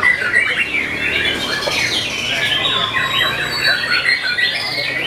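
Several caged white-rumped shamas (murai batu) singing at once, their rapid, varied whistled phrases overlapping in a dense chorus.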